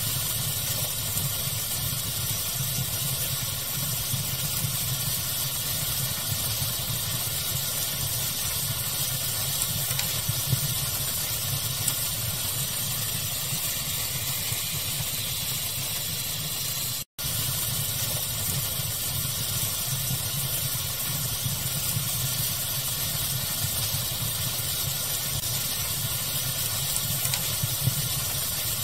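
Steady pink-noise hiss mixed with the crackling of a wood fire, with faint scattered pops. The sound cuts out for an instant about 17 seconds in, then carries on unchanged.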